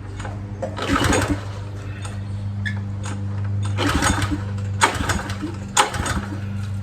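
Recoil starter of a small pressure-washer engine pulled about four times, each pull a short burst of cranking noise, without the engine catching, over a steady low hum. It fails to fire because the fuel valve is shut off.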